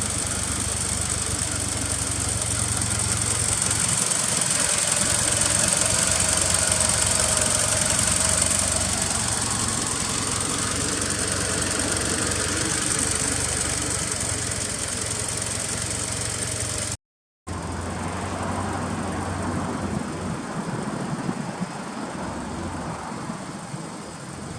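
Lancer Evolution X's turbocharged four-cylinder idling steadily through an aftermarket TOMEI titanium exhaust, with a low even drone and airy hiss. The sound cuts out for a moment about two-thirds of the way through, then the idle carries on.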